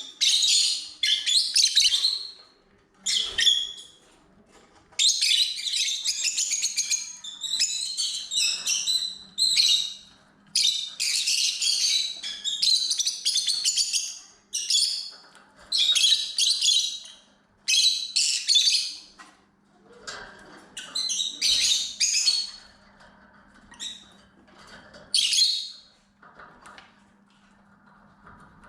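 Lovebirds chirping and squawking in a rapid run of shrill, chattering bursts, growing sparser and quieter near the end.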